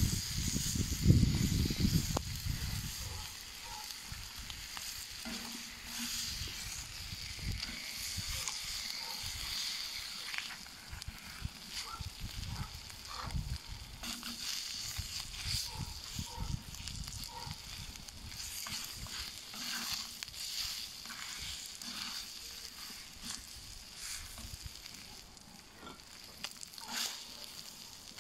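Eggs and bacon sizzling on the hot steel plate of a fire-pit grill, with a metal spatula scraping and tapping on the steel again and again. A low rumble is loudest in the first couple of seconds.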